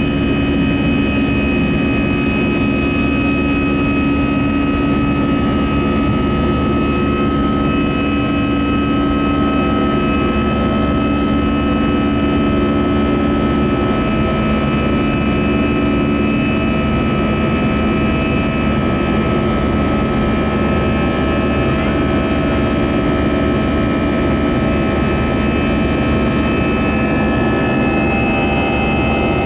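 Steady cabin noise inside a flying Airbus A320: an even engine and airflow roar with a few steady whining tones held over it.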